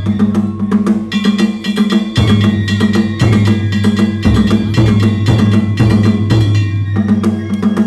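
Danjiri narimono percussion: a large taiko drum and smaller drums beaten in a fast, steady rhythm, with small kane gongs ringing over the top.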